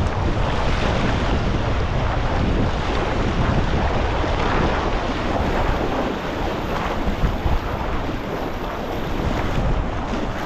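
Wind buffeting the microphone, mixed with steady rushing water from the river.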